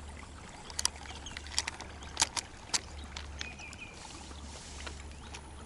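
A handful of sharp clicks and knocks in the first half, the loudest a little after two seconds in, over a steady faint background hiss; a short high chirp follows shortly after the middle.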